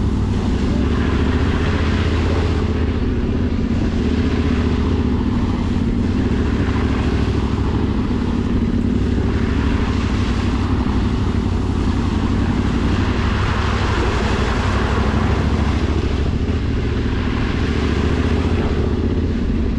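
Motorcycle engine running at a steady pace while riding, with wind and road noise over it.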